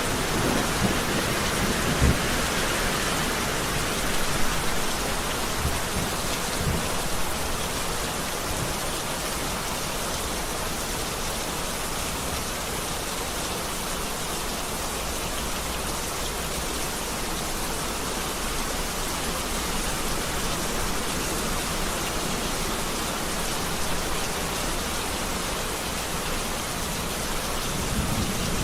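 Heavy rain falling steadily. Low thunder rumbles in the first few seconds die away, and another rumble starts to build near the end.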